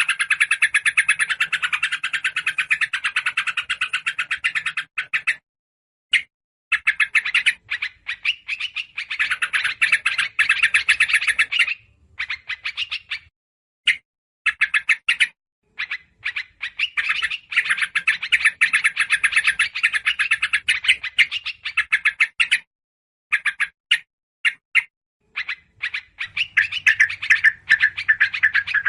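Small songbirds chattering in fast, rattling bouts of rapidly repeated notes, broken by short pauses: agitated yellow-vented bulbul calls mixed with other small birds, the kind of noisy alarm chatter used as a lure call.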